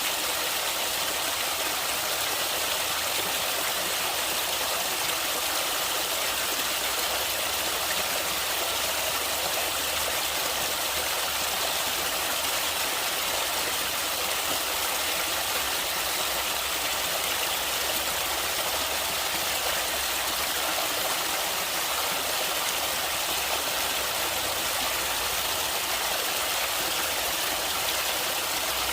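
Flowing stream water, a steady, unchanging rush.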